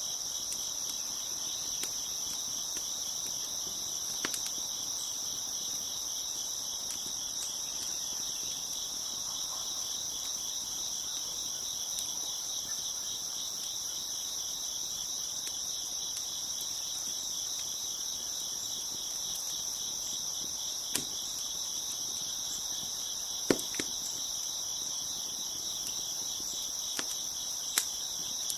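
Crickets chirping in a steady, dense chorus, with a handful of sharp, isolated pops from a crackling wood fire, the loudest a little past two-thirds of the way through.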